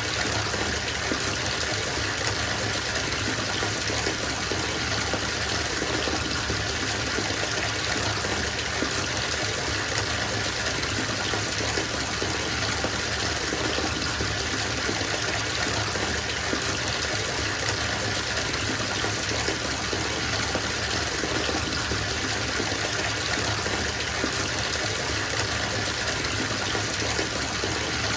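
Bathtub filling from the tap: a steady gush of running water splashing into the tub, unchanging throughout.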